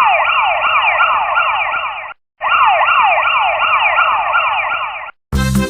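Police car siren sound effect, a fast repeating rise-and-fall about two to three sweeps a second, heard in two runs with a brief break about two seconds in. Music starts right at the end.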